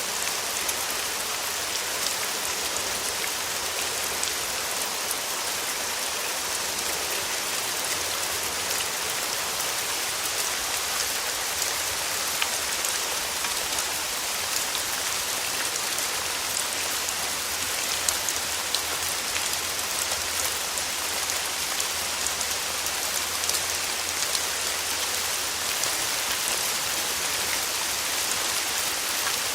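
Steady rain falling, with many close drops pattering on a hard surface.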